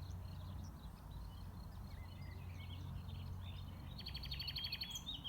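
Several songbirds chirping and singing over one another. Near the end comes a fast, dry trill of about a dozen notes a second. A steady low rumble runs underneath.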